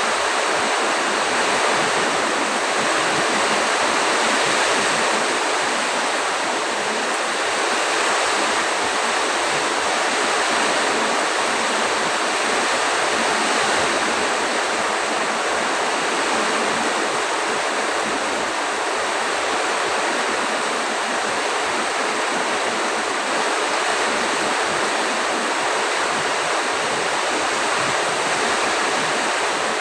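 Heavy storm rain pouring down with strong wind, a loud, unbroken rushing hiss that holds steady.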